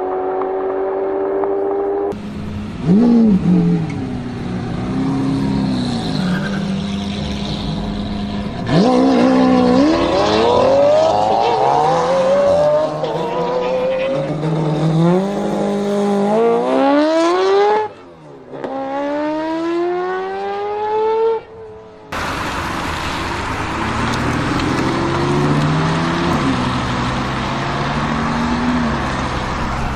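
Supercar engines revving hard and accelerating through the gears, the pitch climbing steeply and dropping back at each upshift. Several different cars follow one another, with abrupt cuts between them.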